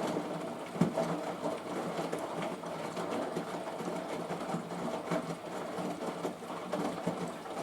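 Washing machine running during a rinse, with a continuous clattering mechanical noise full of small irregular clicks and rattles that sounds horrible.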